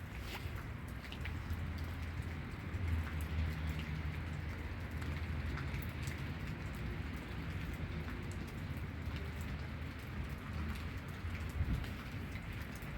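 Steady rain falling, with scattered individual drops ticking on a surface. A low rumble swells underneath about a second and a half in and fades out by about nine seconds.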